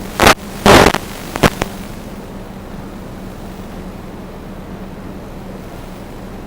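A quadcopter's motors and propellers hum steadily with one constant low tone. Three short, very loud bursts of noise come in the first second and a half, like buffeting or knocks on the microphone.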